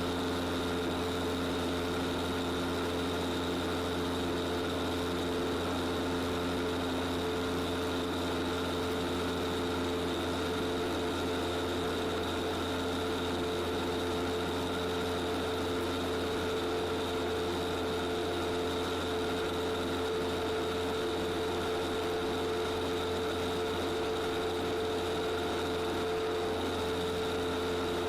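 Light aircraft's piston engine running steadily at low power on the ground, a constant unchanging drone heard from inside the cabin.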